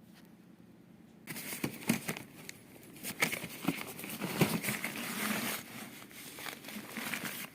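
Rustling and crinkling handling noise with many small knocks, starting about a second in and stopping abruptly near the end.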